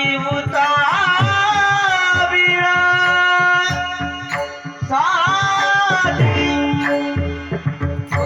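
Indian vocal music: a singer holds long notes, sliding up into them twice, over a steady run of tabla strokes.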